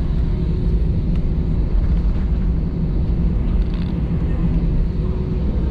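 Airbus A320-200 cabin noise as the plane moves under its own power: a loud, steady low rumble from the jet engines and airframe, with a faint steady hum over it.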